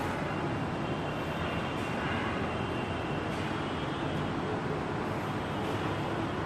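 Steady background rumble in a workshop, with a few faint light clicks of tools being handled.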